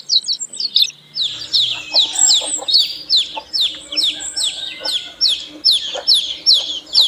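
Chicks peeping: a fast, even run of short, high peeps that fall in pitch, about three or four a second. They start after a short break about a second in.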